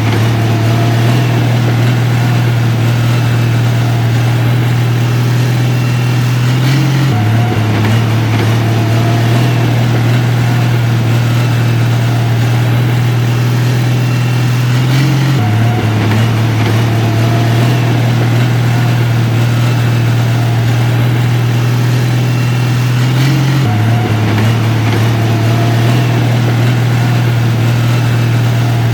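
Heavy diesel engine of a construction machine running steadily: a deep, even drone that shifts slightly in pitch about every eight seconds.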